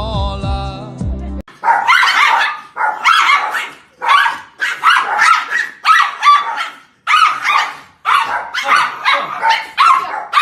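A dog barking over and over in quick runs of short barks, after a second and a half of music that cuts off suddenly.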